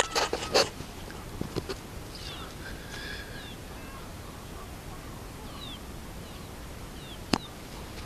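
A few sharp clicks or knocks near the start and one more just before the end, with short, faint bird chirps in between.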